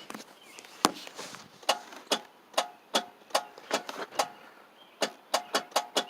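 Starter solenoid of a 1994 Oldsmobile 88 clicking over and over while the engine does not crank, the clicks coming quicker near the end. This is the no-crank, no-start condition, which the owner suspects may be a hydrolocked engine.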